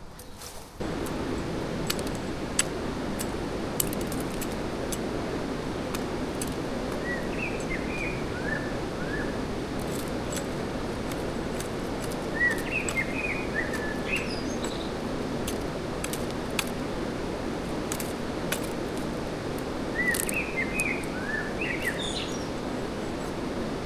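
A fast-flowing stream rushing steadily, with sharp clicks now and then. A small bird sings a short chirping phrase three times, several seconds apart.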